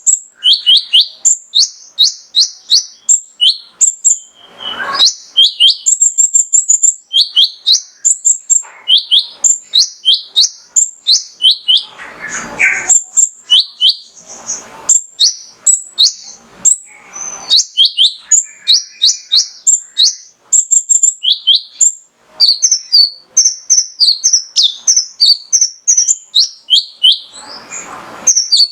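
Male kolibri ninja (konin) sunbird calling in a fast, unbroken run of sharp, high, down-slurred chirps, several a second. A few short noisy bursts break in between them.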